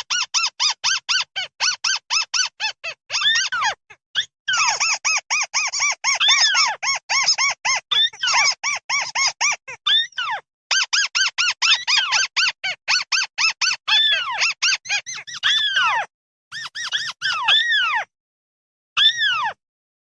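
A mắt xéo bird's flock call: fast runs of short, arched chirping notes, several a second, broken by brief pauses, ending in a few slower, longer notes.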